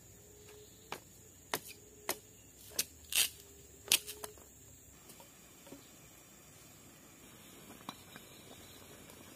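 About six sharp clicks and knocks over the first four seconds, one a little after three seconds lasting slightly longer, then only a faint steady background.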